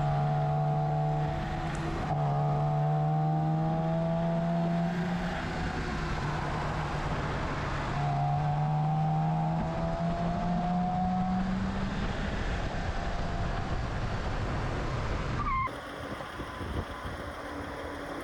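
BMW E30 engine under hard acceleration on track, its pitch climbing steadily through each gear with short breaks at the shifts. Near the end the engine sound cuts off abruptly and a quieter steady noise follows.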